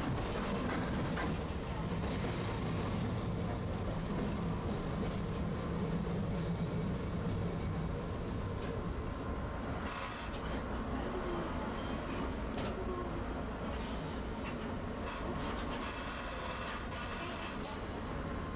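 Tosaden streetcar running on its rails: a steady rumble of wheels and motor. In the second half, high-pitched wheel squeal sounds several times, the kind of squeal heard on curves or in the track.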